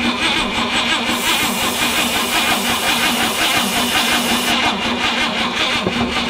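Starter cranking an old truck's carbureted inline-six engine in a steady, even rhythm, without the engine catching. For about three seconds in the middle, the hiss of starting fluid being sprayed into the carburetor sits over the cranking.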